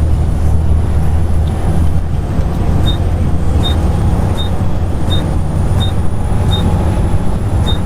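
Volvo B7TL double-decker bus running, heard from inside: a loud, steady low engine drone with a faint high whine over it. From about three seconds in, a short high tick repeats roughly every three-quarters of a second, like the indicator repeater.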